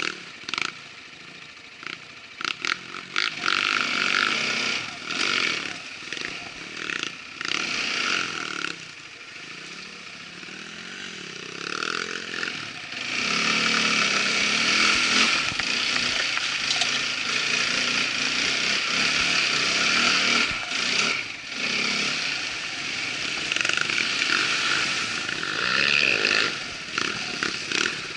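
Irbis ATV 200 quad bike's engine running while riding a rough trail, its pitch rising and falling with the throttle, with repeated knocks and rattles over the first half. About halfway through it goes louder and steadier under more throttle.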